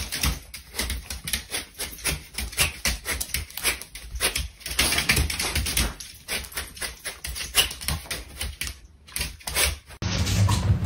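Rapid, irregular clicking and tapping of a small dog's claws on a tile floor as it hops and dances on its hind legs, stopping near the end.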